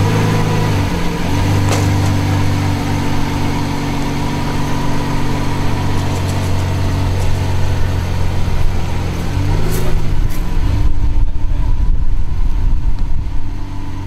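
Lamborghini Veneno's V12 running at low revs as the car is maneuvered at walking pace, with small rises in pitch about a second in and again near ten seconds. After that the engine note fades under a loud low rumble.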